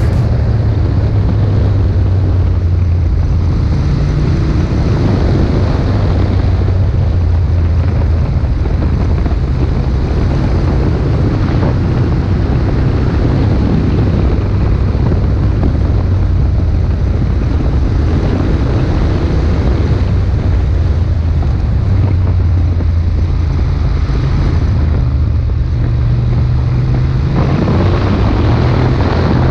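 Ducati Monster 1200's L-twin engine running while riding, its note rising and falling with the revs, with wind noise on the helmet or bike-mounted action camera's microphone.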